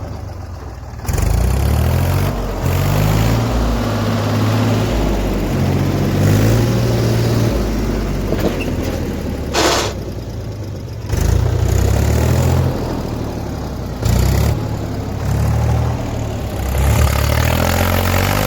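Heavy diesel engine revving hard over and over, its note stepping up and down, with a brief hiss near the middle.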